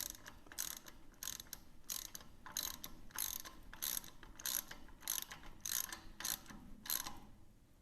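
Hand ratchet wrench clicking in repeated strokes, about one every half second, as a bolt is tightened; the strokes stop about seven seconds in.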